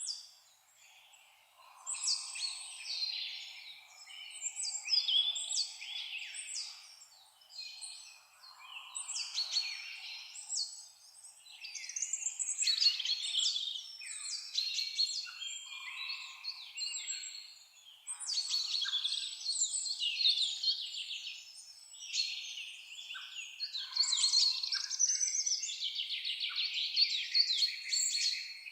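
Several songbirds singing and chirping together in a busy chorus of high, rapid trills and chirps, coming in bursts with brief lulls between them.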